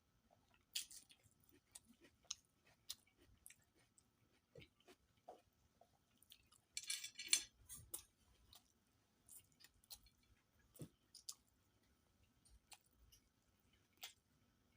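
Close-up eating sounds of a person chewing a meal of fish curry and rice: soft wet mouth clicks and smacks scattered throughout, with one louder crackly burst about seven seconds in.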